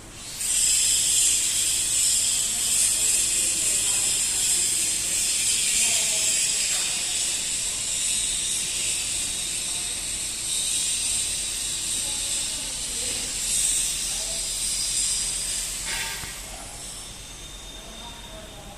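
Pressurised gas jetting out with a loud, steady hiss, of the kind heard when a split air conditioner's refrigerant lines are purged. It starts suddenly about half a second in and dies away about sixteen seconds in.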